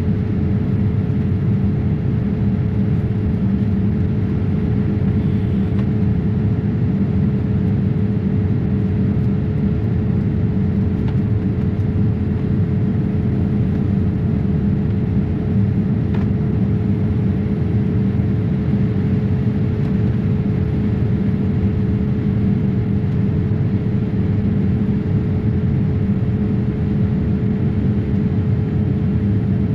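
Boeing 787-8 passenger cabin in flight: a steady drone of engine and airflow noise, with a constant hum running through it.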